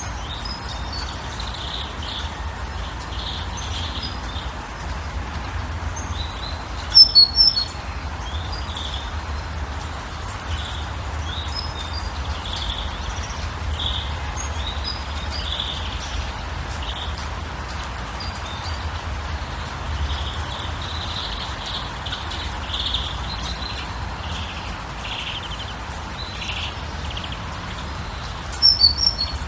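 Birds chirping and calling over a steady background hiss and low rumble, with a loud cluster of sharp, high calls about seven seconds in and again near the end.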